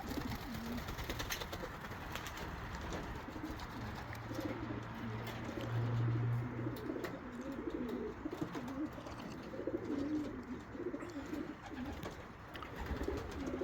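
Racing homer pigeons cooing, with repeated wavering coos from about four seconds in. A low steady hum sounds beneath them for a few seconds in the middle.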